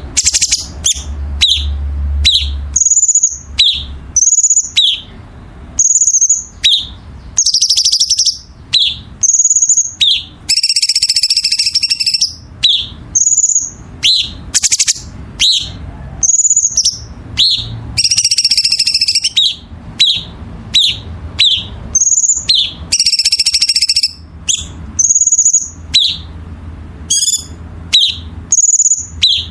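A songbird singing continuously and loudly, in a varied song that mixes short high whistled notes and quick falling chirps with longer harsh, buzzy trilled phrases lasting a second or two. This is the kind of active 'gacor' song recorded as a 'masteran', a tutor recording that keepers play to cage birds so they learn it.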